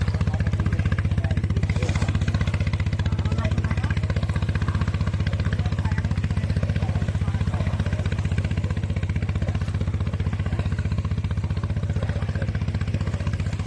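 An engine running steadily at constant speed, a low even drone with a fast regular beat.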